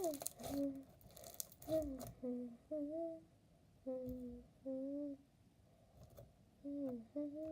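A girl humming a tune in short notes. In the first two seconds there is crackling from a crunchy slushy slime full of foam beads being squeezed.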